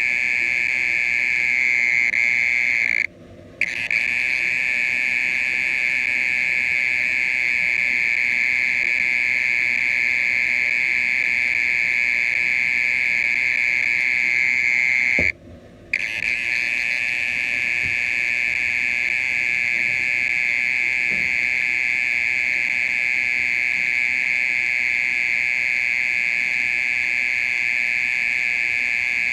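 Mole cricket calling: a loud, steady, high buzzing trill. It breaks off twice for about half a second, a few seconds in and about halfway through.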